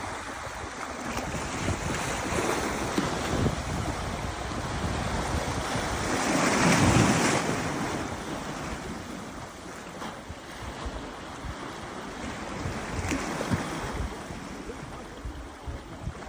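Sea waves washing onto the beach, one wave breaking louder about halfway through, with wind buffeting the microphone.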